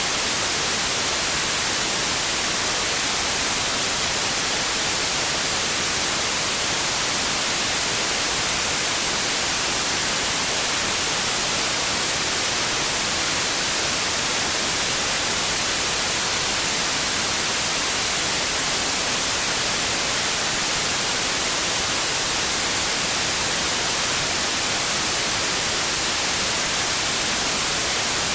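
Steady white noise: an even, unchanging hiss weighted toward the high frequencies.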